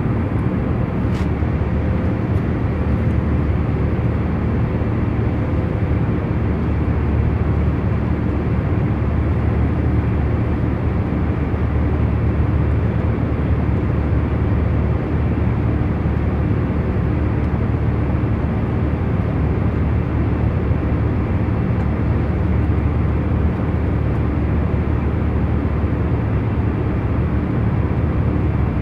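Airplane cabin noise in cruising flight: a steady, deep rumble with a faint hum and no change in level. There is a faint tick about a second in.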